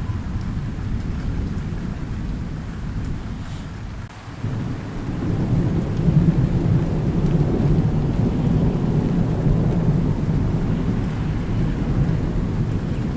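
Thunder rumbling over steady rain. One rumble fades about four seconds in, then a new, louder one swells up and rolls on.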